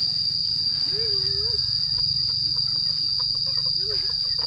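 Insects, crickets or cicadas, keeping up a steady, unbroken high-pitched drone. Faint short murmurs and light clicking sounds come and go beneath it.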